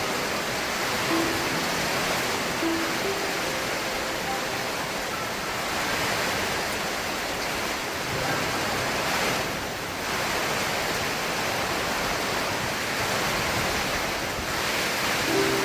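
Steady rain falling, an even hiss that swells and dips slightly in level.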